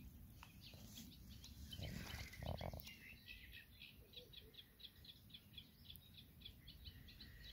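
Faint bird chirps from the reed bed, with a quick run of short high notes through the second half. Otherwise near silence.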